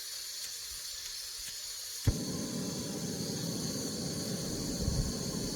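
Portable gas camp stove hissing steadily, with a sharp click about two seconds in, after which a lower steady rushing sound joins the hiss as the burner burns.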